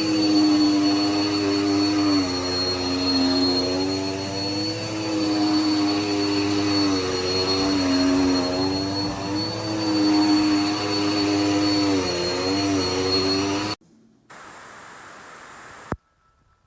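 Dirt Devil Endura Lite bagless upright vacuum cleaner running: motor hum with a steady high whistle, its pitch wavering slightly. It cuts off suddenly near the end, followed by a faint hiss and a single click.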